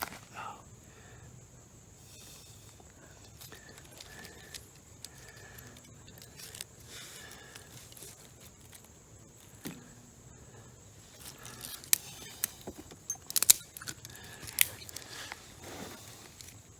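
Newly lit campfire of damp kindling burning quietly, with a run of sharp snaps and cracks from about twelve to fifteen seconds in.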